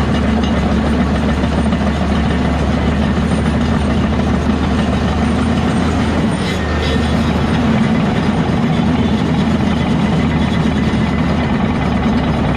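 Heavy diesel earthmoving machinery running steadily, with a short sharper noise about halfway through.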